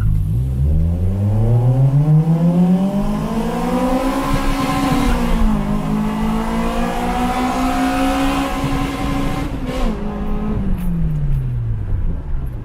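Toyota Corolla Sportivo's 2ZZ-GE four-cylinder engine accelerating hard in a roll race. The revs climb steadily for about four seconds, dip briefly, hold high for several seconds, then fall away near the end as the driver lifts off.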